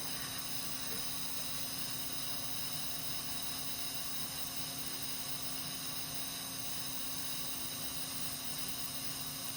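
Steady electrical hum with a layer of hiss, unchanging throughout, with no distinct clicks or tool sounds.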